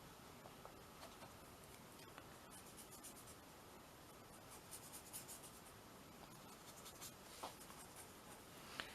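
Faint, soft scratching of art tools being worked in short strokes across a paper-covered canvas, a little busier about halfway through.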